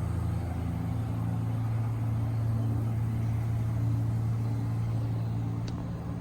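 An engine running at a steady speed, a low even drone.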